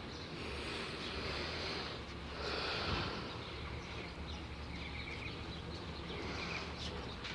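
Outdoor background noise: a steady low rumble with two swells of hiss in the first half, and faint, rapid, high chirps in short runs in the second half.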